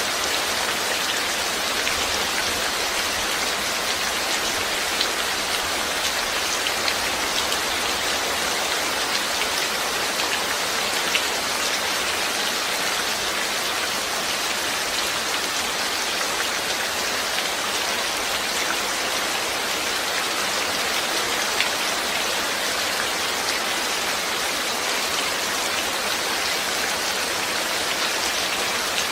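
Steady rainfall, an even hiss of rain with scattered individual drops pattering.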